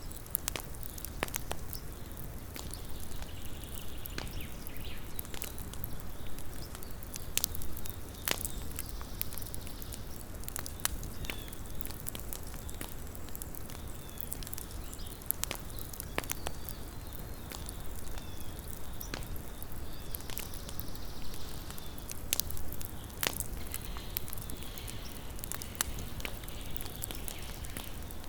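Small wood campfire crackling: irregular sharp pops and snaps of burning wood over a low steady rumble.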